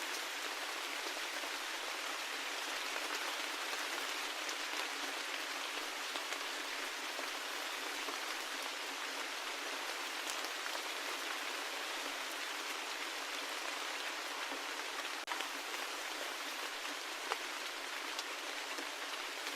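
Steady rain falling: an even hiss with a few individual drop ticks scattered through it.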